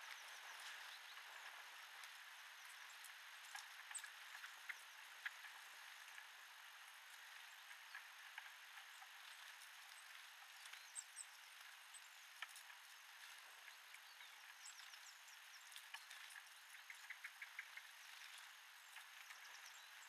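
Small birds at a feeder: scattered short, high chirps and calls with soft clicks, and a quick run of about eight ticks about three-quarters of the way through, over a steady faint hiss.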